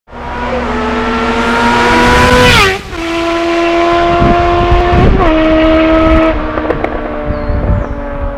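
Suzuki GSX-R 750 inline-four with a Yoshimura exhaust accelerating hard. The engine note rises, drops sharply at an upshift a little under three seconds in, rises again to a second upshift about five seconds in, then holds steadier and fades as the throttle eases.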